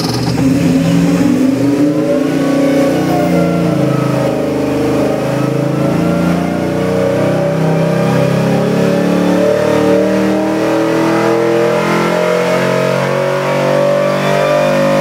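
GM LS3 376 cubic-inch V8 crate engine making a power pull on an engine dynamometer. It runs under load with its revs climbing steadily from about 1,600 to about 5,700 rpm, where it makes about 500 horsepower.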